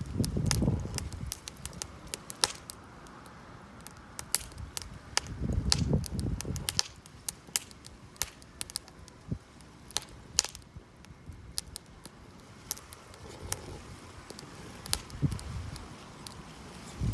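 Campfire wood crackling, with irregular sharp pops and snaps. A few low rumbling stretches come and go near the start, midway and at the end.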